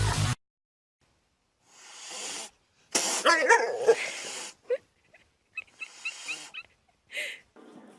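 Background music cuts off just after the start; after a short pause come a string of short pet-animal calls and noises, with a run of quick high chirps about three quarters of the way through.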